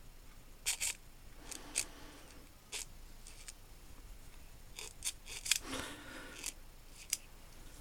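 Small metal tool parts being handled, a dial indicator holder with its magnetic base: a scatter of sharp clicks and clinks, irregularly spaced, with brief faint rustling between them.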